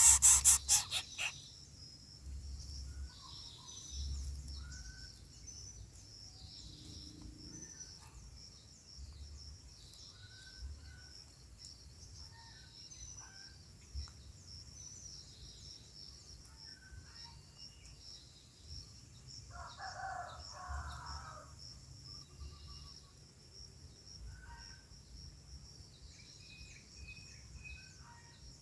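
Outdoor bird and insect ambience: a steady high buzz of insects, with scattered short bird chirps. A rooster crows once about twenty seconds in. A quick burst of sharp clicks in the first second is the loudest sound.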